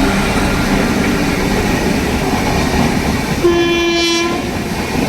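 Indian Railways train running, with continuous rail noise and clatter. About three and a half seconds in, a train horn gives one blast about a second long.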